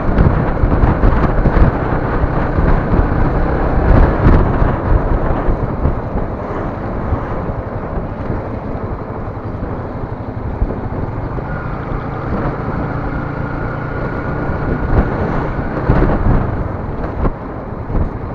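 Loud rumbling road and engine noise of a moving vehicle, picked up by a dashcam's microphone, with a few heavier knocks along the way.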